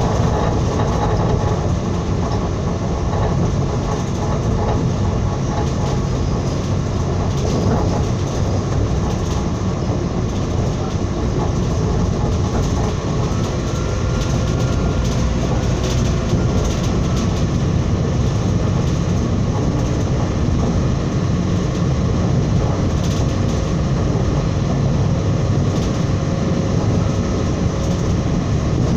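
Train running along the track, heard from inside the carriage: a steady rumble of wheels on rails, with faint scattered clicks.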